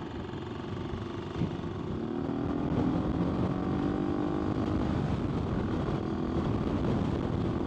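AJP PR7's single-cylinder engine pulling under way, its pitch rising gradually from about two seconds in as the bike gathers speed, with wind noise throughout.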